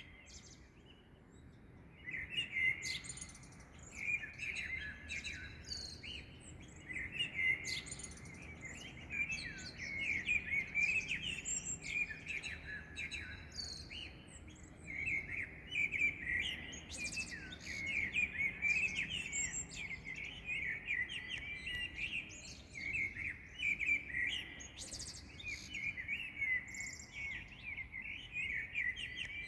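Dawn chorus of small songbirds: dense, quick chirping and twittering from several birds at once, starting about two seconds in and carrying on without a break.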